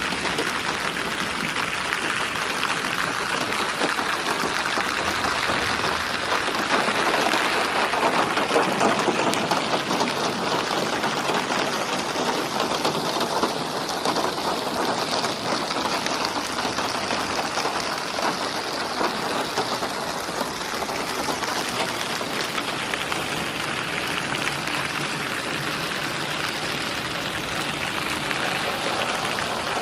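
Steady rain falling and pattering on a surface, a little heavier about a third of the way through.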